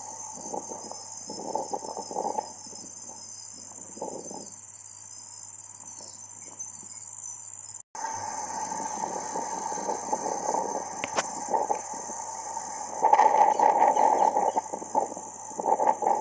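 Crickets chirring in a steady, high-pitched drone over uneven, gusty lower noise that swells and fades and is loudest near the end. The sound cuts out for an instant about eight seconds in.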